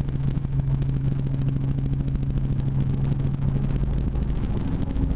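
Helicopter engine and rotor running steadily during lift-off: a low, steady hum with a fast, even chop.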